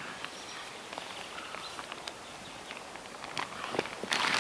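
Rustling and light knocks of people and dogs moving about inside a small tent, with faint bird calls in the background; the rustling grows louder near the end.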